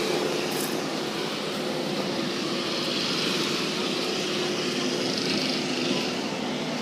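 A steady engine drone running at constant speed over an even hiss.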